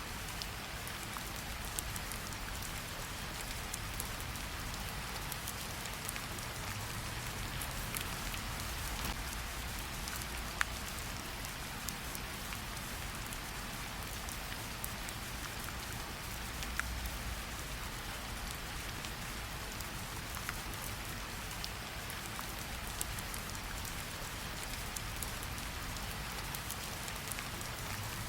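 Gentle rain falling on tree leaves: a steady patter with scattered individual drops ticking and dripping from the leaves.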